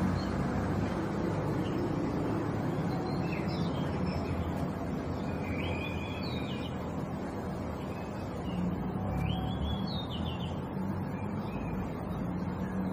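Bird calls: three short runs of quick, rising high notes, heard over a steady low background rumble.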